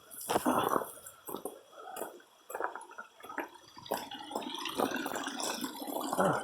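Stream water splashing and trickling over rocks at a small waterfall cascade, in irregular splashes at first, then a steadier rush in the second half.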